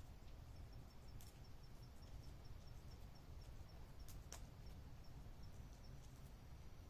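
Faint campfire crackling: a few sharp pops, the clearest about four seconds in, over a low steady rumble, with a faint high chirp repeating about five times a second through most of it.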